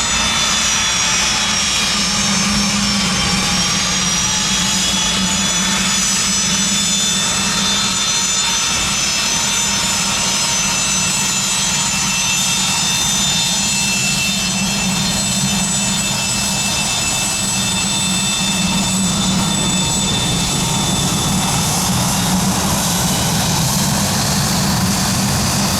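Private jet's turbofan engines running: several high, thin whining tones over a broad rushing noise and a low hum, all steady. The whine dips slightly in pitch in the first few seconds.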